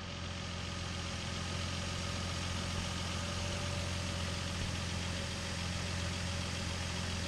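2015 Nissan Frontier's V6 engine idling steadily and smoothly. The number 5 cylinder misfire (code P0305) is cured, after a rat-chewed injector harness, new spark plugs and new cam position sensors.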